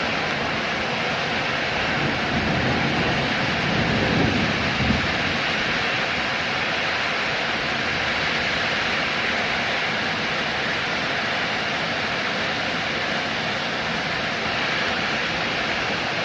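Steady heavy rain, an even rushing hiss, with a brief low rumble swelling about two to five seconds in.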